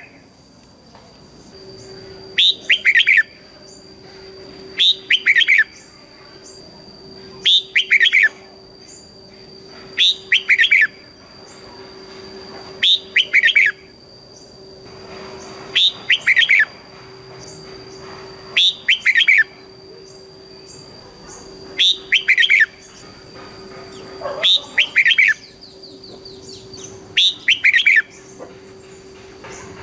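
Red-whiskered bulbul singing its short doubled song phrase over and over, about ten times, one phrase every two to three seconds, over a faint steady hum.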